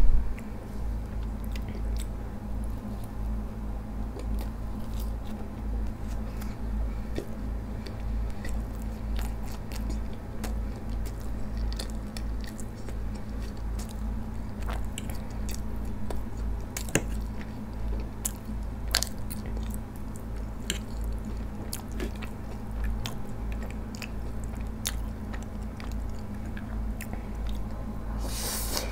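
Close-miked biting and chewing of cheese-stuffed garlic bread: one loud bite at the start, then steady chewing with many small mouth clicks over a steady low hum. Near the end comes a short slurp of ramen noodles.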